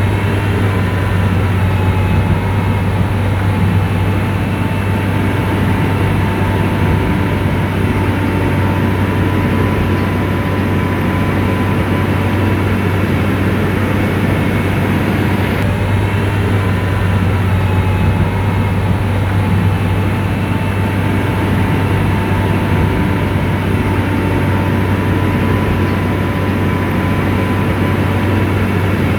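Heavy diesel road-construction machine running steadily: a continuous deep engine drone with a faint whine on top.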